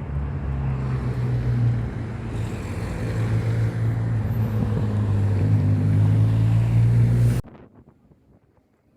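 Boat engine running steadily, with wind buffeting the microphone; it cuts off abruptly about seven seconds in.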